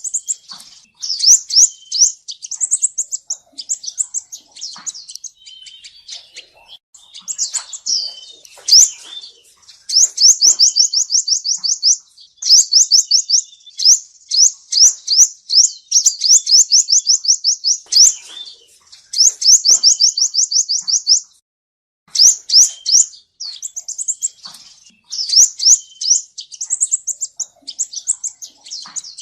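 Male sunbird singing: rapid, high, trilled phrases of fast repeated notes, one after another, with a brief pause about three-quarters of the way through.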